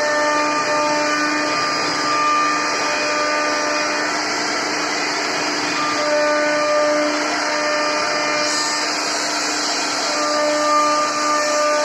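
CNC router spindle running and carving wood: a steady high whine over continuous cutting noise.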